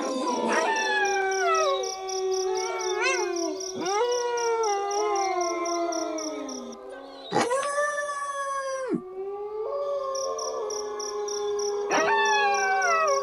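A pack of wolves howling in chorus: several long howls overlap, gliding up and down in pitch, with one loud howl about halfway through. A faint, even, high pulsing runs behind them.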